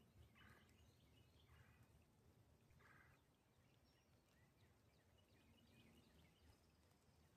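Very faint outdoor ambience with a low rumble and a scatter of short chirping animal calls, three stronger calls in the first three seconds and many small chirps after.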